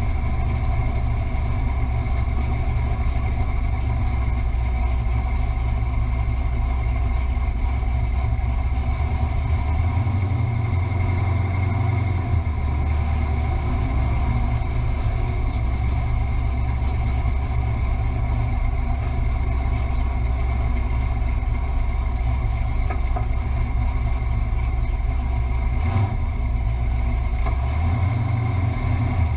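Car engine idling steadily with a low, even tone and no revving.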